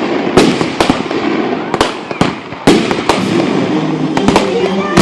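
Fireworks going off in quick succession: about a dozen sharp bangs in five seconds, unevenly spaced, some close together.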